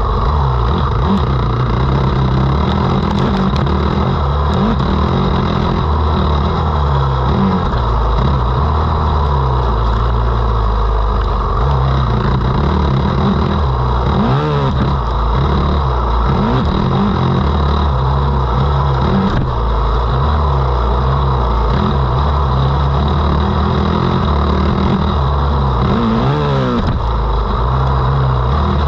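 Motocross dirt bike engine running hard, its pitch rising and falling again and again with throttle and gear changes, loud and unbroken throughout.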